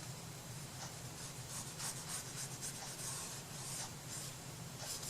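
Soft, irregular strokes of a paintbrush being worked over the surface of a small wooden craft box, over a steady low hum.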